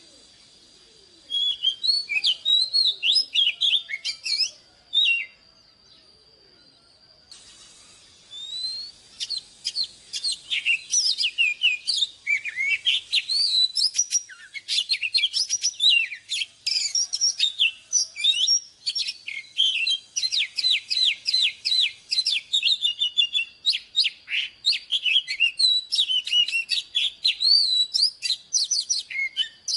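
Oriental magpie-robin singing: a fast, varied run of whistled notes and chirps. It breaks off for a couple of seconds about five seconds in, then carries on almost without a pause.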